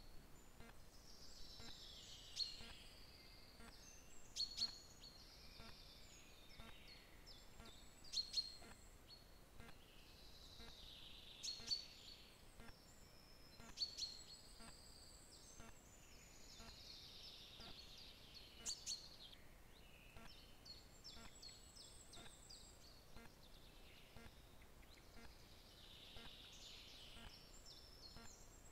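A songbird singing faintly: a short high phrase repeated every few seconds, over a steady outdoor hiss.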